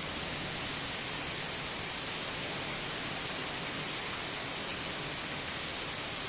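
Heavy rain falling steadily on wet paving, an even hiss with no breaks.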